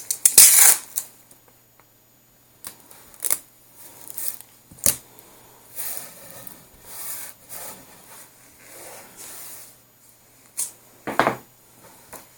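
Masking tape ripped off the roll in a loud hissy burst, then pressed and rubbed down onto the amp cabinet, with scattered small clicks and knocks of handling.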